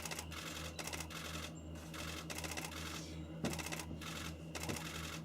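Camera shutters firing in rapid continuous-shooting bursts, several overlapping bursts of fast clicking one after another, over a low steady hum.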